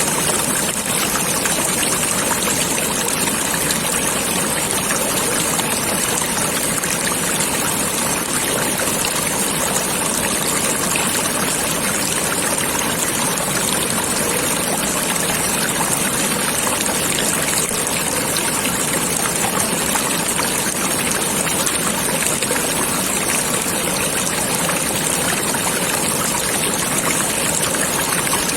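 A stream of water flowing with a steady, unbroken rushing sound.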